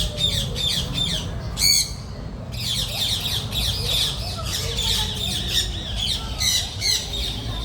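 Sun conures screeching: a flock's shrill calls, many overlapping and repeated, with a brief lull about two seconds in.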